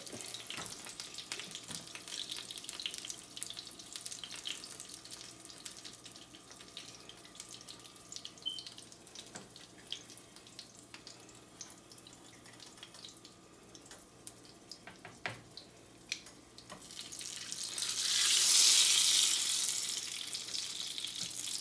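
A filled tortilla sizzling in hot oil in a nonstick skillet: a steady light hiss with scattered crackles and pops, which swells into a loud sizzle about seventeen seconds in as the folded taco is pressed down into the oil, then eases.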